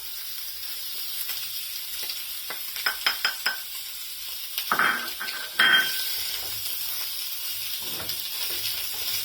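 Fried potatoes and taco meat sizzling in a frying pan, with a steady hiss. A utensil scrapes and clinks against the pan in short clusters, loudest about five to six seconds in.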